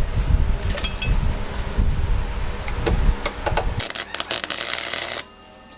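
Clinks and low rumbling handling noise, then about four seconds in a MIG welder's arc crackles for about a second and a half, laying a tack weld on sheet-metal bodywork, and cuts off suddenly.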